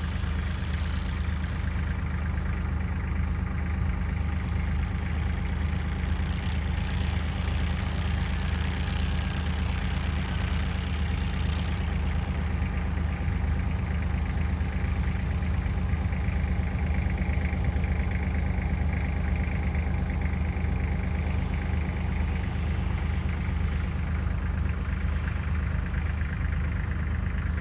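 A vehicle engine idling steadily with an unchanging low hum.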